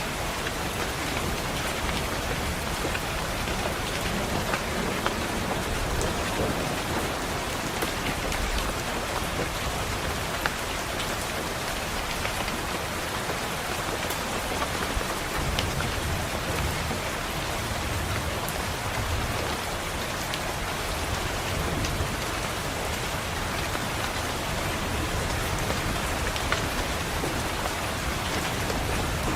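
Steady rain hitting a window pane, with low rumbles of distant thunder swelling in the second half.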